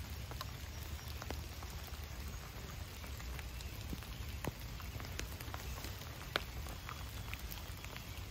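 Light rain falling, with scattered individual drops ticking sharply every second or so.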